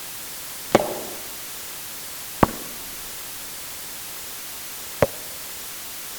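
Tennis ball impacts on an indoor court: three sharp, separate hits with a short echo, over a steady hiss.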